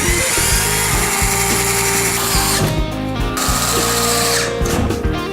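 Power screwdriver driving self-tapping screws through drywall into a metal stud: one run of about two and a half seconds, a short pause, then a second run of about a second.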